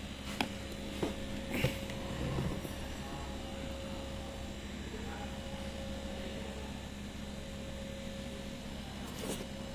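A steady electrical hum with a few light clicks and knocks in the first two seconds and one more near the end.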